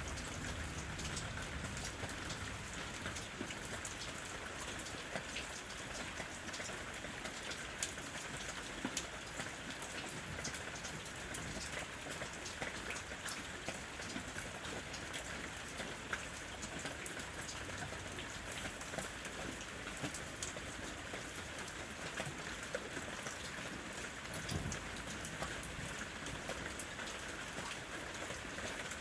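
Steady rain falling on a house roof: a constant hiss, with many separate drops ticking on the surface throughout.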